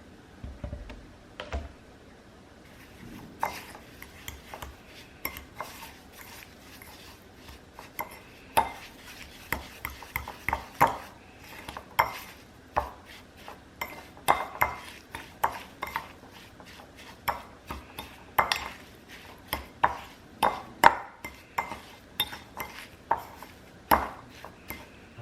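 Kitchen utensils clinking and knocking against pots and bowls: a long run of irregular, sharp clinks, some with a short metallic ring.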